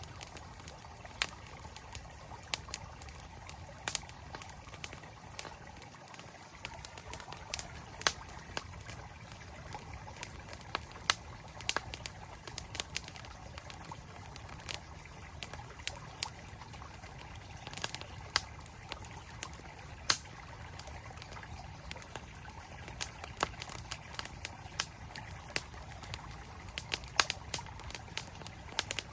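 Campfire crackling, with irregular sharp pops over the steady rush of a flowing mountain stream.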